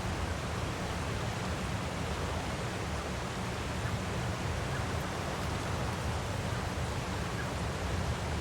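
Waterfall: a steady, even rush of falling water with no change or break.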